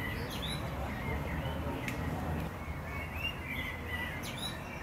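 Birds chirping: short high chirps repeated at irregular intervals, over a steady low rumble of background noise.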